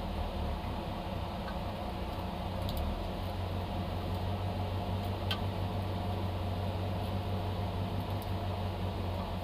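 Citroën AX GTI rally car's engine idling steadily, heard from inside the cabin, with a few faint light ticks.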